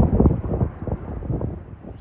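A semi-truck passing close by and fading away, its rumble and clatter dying down over about a second and a half, with wind buffeting the microphone.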